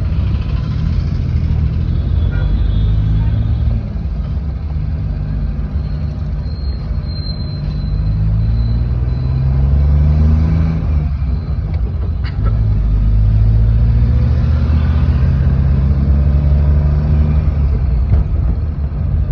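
Car engine and road noise while driving, with the engine note climbing twice as the car picks up speed.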